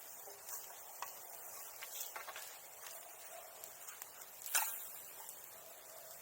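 Wood bonfire crackling, with scattered sharp snaps and one loud pop about four and a half seconds in.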